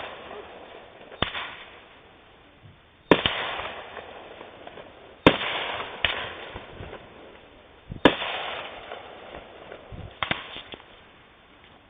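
Fireworks bursting: about five sharp bangs a couple of seconds apart, each trailing off over a second or two, the last a quick double bang near the end.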